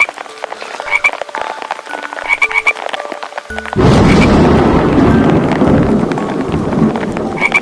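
Frogs croaking in short repeated calls. About three and a half seconds in, a loud rumbling noise starts suddenly and slowly fades.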